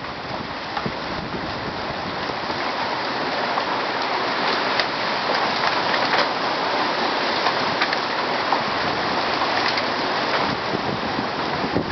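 Heavy hail mixed with rain pelting down: a dense, steady hiss full of sharp ticks from the stones, building slowly in loudness.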